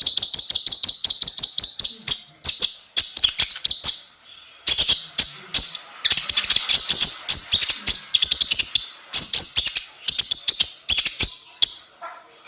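Konin (kolibri ninja) sunbird singing energetically: rapid, high-pitched chattering trills delivered in phrases of a second or two, with short pauses between them.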